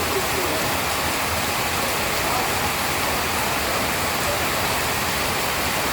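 Steady heavy rain, an even dense hiss with no let-up.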